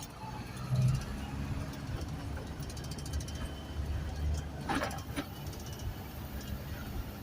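Isuzu garbage truck's diesel engine running as the truck drives, a steady low rumble. About five seconds in comes a short rasping noise.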